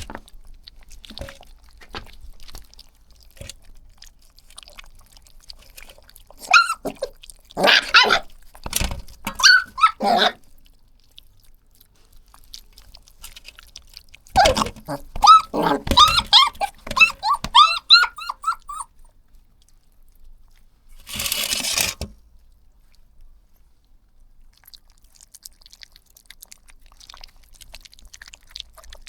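Puppies yipping and barking in two bouts, the second a quick run of high-pitched yelps. A short burst of noise comes about two-thirds of the way through.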